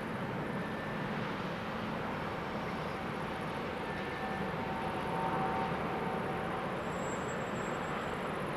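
Steady rumble of a train running through the station, with a faint squealing tone from the wheels or brakes about halfway through.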